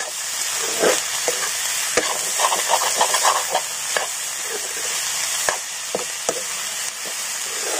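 Food sizzling in hot oil in a pan while a spatula stirs it, scraping the pan; the scrapes come irregularly, with a quick run of about six a second around the middle.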